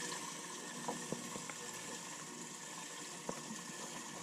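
Steady bubbling and running water from a bass boat's livewell aerator pump, with a few light clicks.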